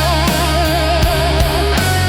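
Heavy metal music: a lead electric guitar holding notes with wide vibrato over distorted rhythm guitar, bass and drums.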